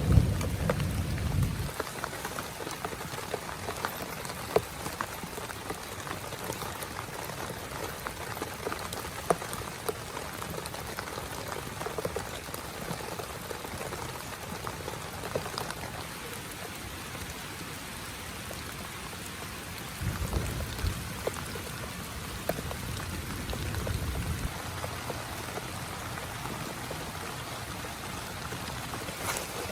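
Heavy rain falling on a small tent, a steady hiss with many separate drop ticks. A low thunder rumble dies away in the first two seconds, and low rumbles come back about twenty seconds in and again near twenty-four.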